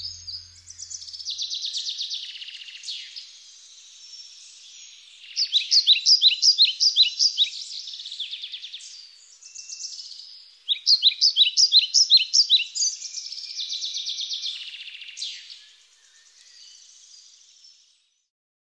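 Songbirds singing: phrases of rapid, high chirped notes, several a second, loudest in two bursts in the middle, fading out near the end.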